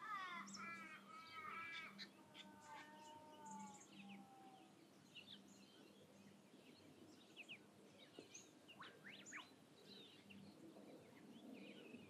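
Wild birds calling faintly in coastal bushland: a quick run of calls in the first two seconds, then a few drawn-out falling notes, then scattered short chirps with a pair of rising whistles about nine seconds in.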